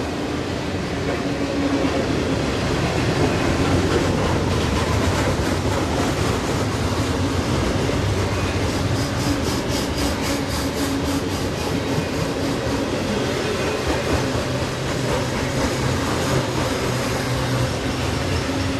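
Freight train of double-stacked container cars rolling steadily past, with continuous wheel-and-rail noise and a rhythmic clatter of wheels over the rail joints.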